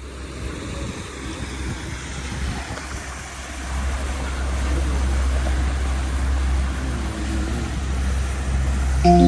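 Motorboat under way, a steady low engine rumble with rushing water and wind noise, growing louder a few seconds in.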